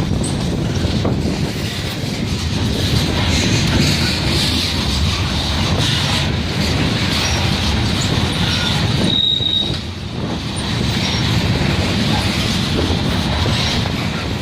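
Train rolling past close by: a steady rumble of wheels on rail with a high wheel squeal throughout and a short, sharper squeal about nine seconds in.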